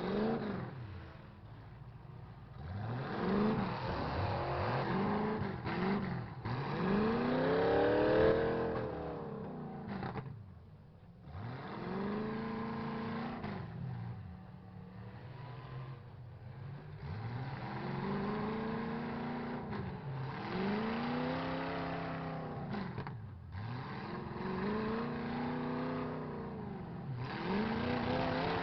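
Truck engines in a demolition derby revving up and dropping back again and again, several at once, the pitch rising and falling every second or two.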